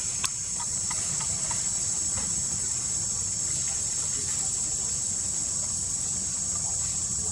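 Steady insect chorus, a high, even drone without a break, with a few faint clicks in the first two seconds.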